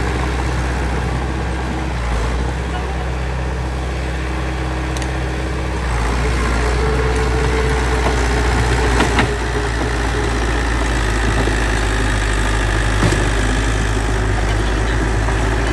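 Bulldozer's diesel engine running with a steady low drone, getting louder about six seconds in. Two short sharp knocks come through in the second half.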